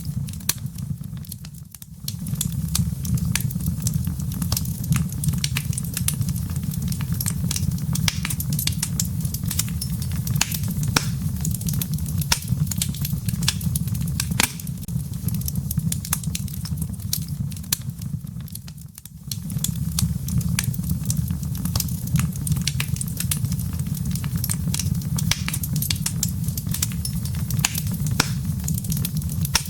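Wood fire burning in a fireplace: dense, irregular crackling and popping of the logs over a steady low rumble of the flames. The sound dips briefly twice, then comes back.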